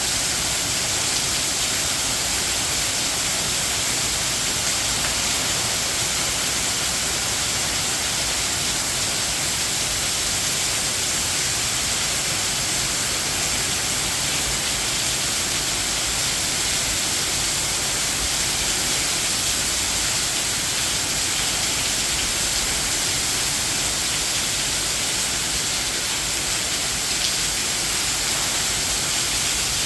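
Heavy rain falling steadily, a dense, even hiss that holds at one level throughout.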